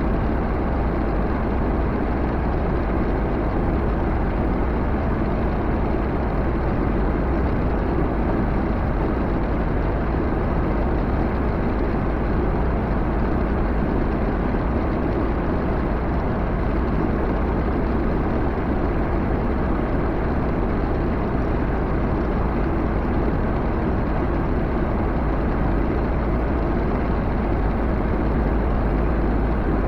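Backhoe's diesel engine running steadily under way, a low, even drone with no change in pace.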